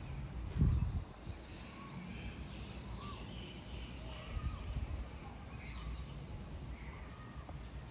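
Faint, scattered short bird chirps and small whistled glides over a steady low rumble, with a dull thump about half a second in.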